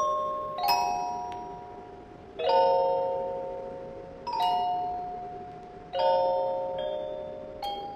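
Music box playing a slow, wistful melody: small chords of bright plucked notes every second or two, each ringing out and fading before the next.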